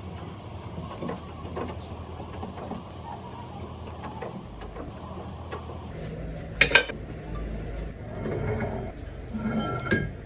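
Workshop machinery running steadily with a low hum, with one sharp metal clank about two-thirds of the way in and a few lighter metal knocks near the end.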